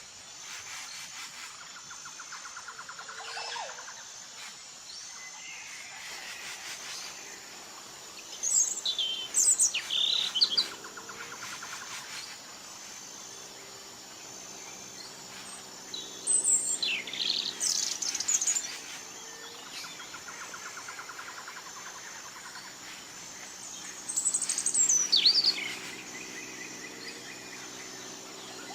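A bird singing bursts of quick, high chirps and whistles about every eight seconds, three times, over a steady high insect trill.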